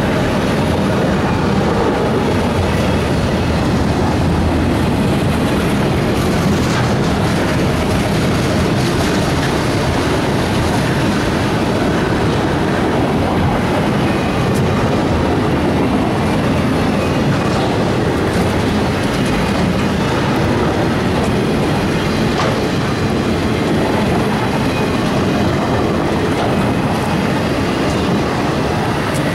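Enclosed autorack freight cars rolling past close by: a steady, loud rumble of steel wheels on rail, with scattered clicks of wheels passing over rail joints.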